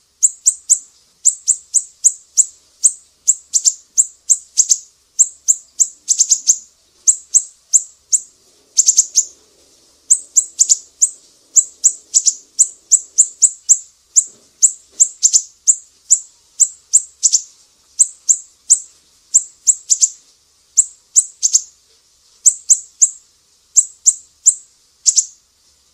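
Small cage birds chirping: an unbroken run of short, high, down-slurred chirps in quick clusters, several a second, pausing only briefly about nine and a half seconds in.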